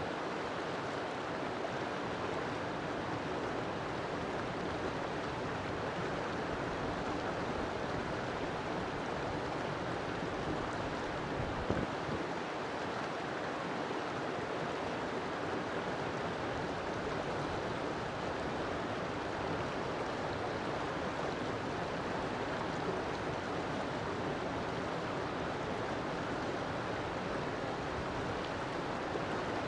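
River water flowing and rushing steadily, with a single brief knock about twelve seconds in.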